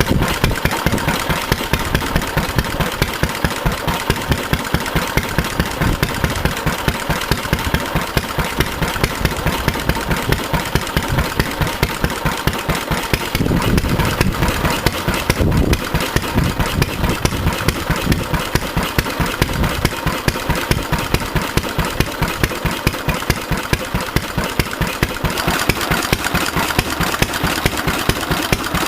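Late-1920s Pelapone Type FB four-stroke stationary engine, about 3 hp, running steadily with a slow, even beat of exhaust pulses, briefly a little heavier about halfway through.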